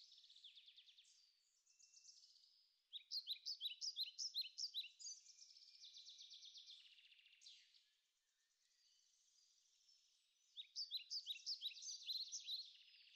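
Faint birdsong: bouts of rapid, repeated high chirps, with short lulls between the bouts.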